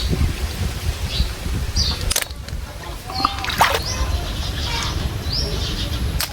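Birds chirping outdoors in short, repeated high calls over a steady low rumble, with a sharp click about two seconds in and another near the end.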